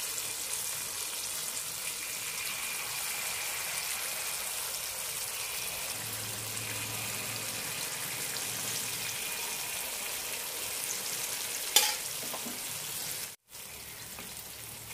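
Unniyappam batter frying in hot oil in the cups of an unniyappam (appe) pan: a steady sizzle, with one sharp knock a little before the end.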